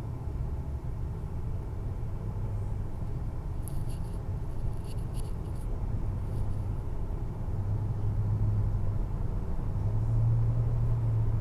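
Motorcycle running on the move, a steady low engine hum with road rumble that grows a little louder near the end. A few faint, short high squeaks about four to five seconds in.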